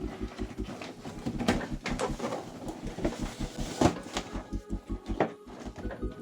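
Cardboard box being closed: flaps folded and pressed shut, with scattered sharp knocks and scrapes, about half a dozen of them.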